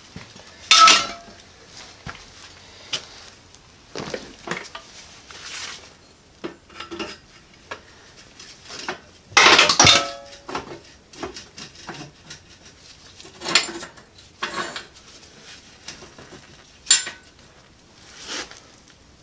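Metal parts clanking and clinking as they are handled and fitted, in irregular knocks. The loudest clank comes about ten seconds in and rings briefly.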